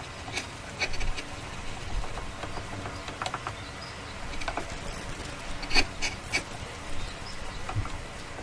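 Irregular light knocks and clicks, wood being handled and tapped, about eight over several seconds with a faint steady background between them.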